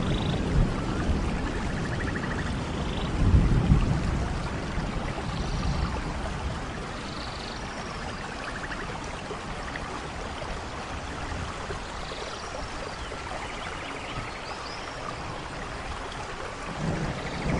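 Steady rainfall with a low rumble of thunder about three seconds in and another swelling near the end. A few faint short high chirps sound through the rain.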